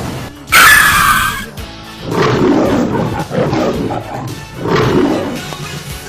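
Music with dubbed-in sound effects: a sudden loud, shrill burst about half a second in, then two swelling animal calls, one about two seconds in and one near the end.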